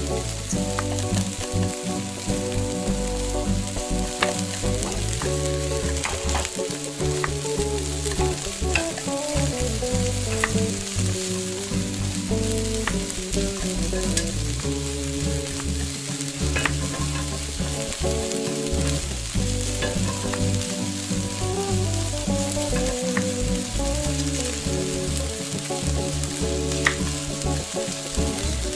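Pancake batter frying in a miniature metal pan: a steady sizzle, with scattered small clicks and scrapes as a tiny spoon and spatula touch the pan.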